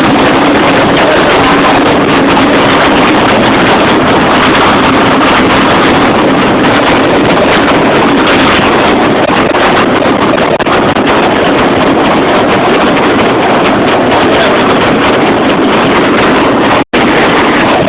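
Loud, steady engine noise with heavy wind buffeting the microphone, and a low hum that is plainest in the first half. The sound cuts out for an instant about a second before the end.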